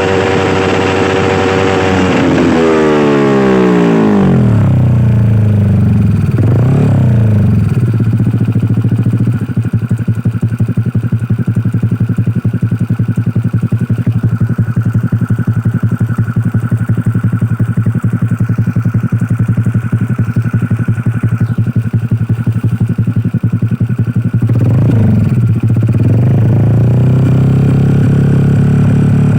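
150cc automatic scooter's single-cylinder engine running through a Lone Rider CMMS aftermarket silencer, with a deep, bassy exhaust note. It drops from high revs back to idle about four seconds in, gives a short blip a few seconds later, idles steadily, then revs up again and holds higher revs near the end.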